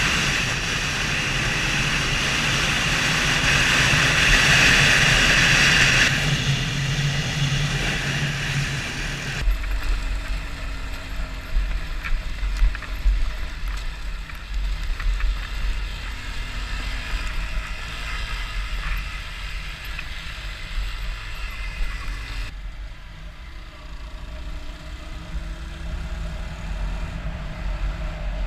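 Motorcycle engine running while riding, with the sound changing abruptly a few times, around 6 s, 9.5 s and 22 s in.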